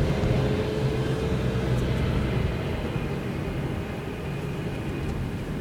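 Road and engine noise inside a moving car's cabin: a steady low rumble that eases off slightly toward the end.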